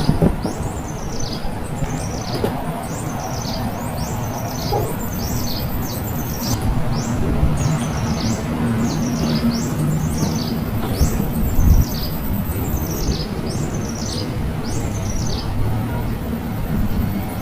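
A bird giving repeated short, high chirps that slide downward in pitch, about two a second, over a steady low background hum.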